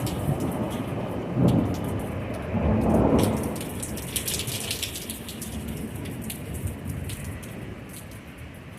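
Thunder rumbling over steady rain: one swell about a second and a half in and a louder, longer one around three seconds, then the rumble dies away. Sharp raindrop ticks sound over the rain throughout.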